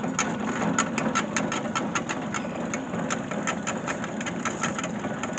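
Tractor engine running a belt-driven corn feed grinder, before the corn is fed in: a steady low hum under an even, rapid clatter of about six or seven ticks a second.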